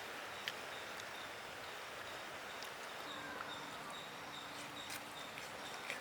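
Quiet outdoor ambience: a steady faint hiss with a few small, sharp clicks scattered through it.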